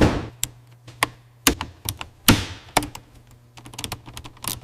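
Metal clamps engaging: a string of sharp mechanical clunks and clicks, the loudest about two seconds in, then a quicker run of lighter clicks near the end, over a low steady hum.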